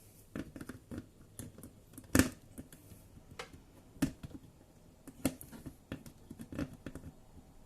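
Scattered plastic clicks and knocks as clipped parts in the dishwasher's base are pinched free and handled. One knock about two seconds in is the loudest.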